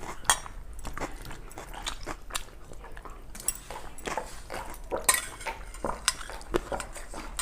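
Eating at a meal of pakhala (water rice): chewing and mouth sounds, with short clicks and clatters of dishes scattered throughout.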